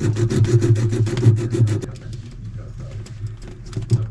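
Rapid rasping or scraping strokes, about ten a second, over a steady low hum. They stop about two seconds in, leaving small clicks and handling noises as work on the refrigerator tubing goes on.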